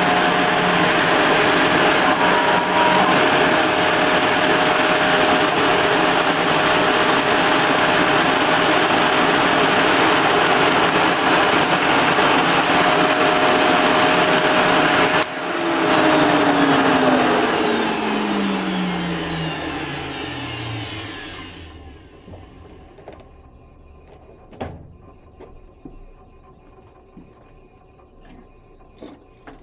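A Kress router spindle on a homemade CNC milling machine running at high speed, then switched off about halfway through: its whine falls steadily in pitch as it spins down over a few seconds and fades out, leaving a few faint clicks.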